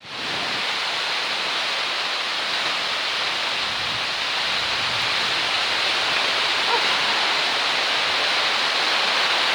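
Heavy rain pouring down in a violent storm: a steady, dense hiss of rainfall.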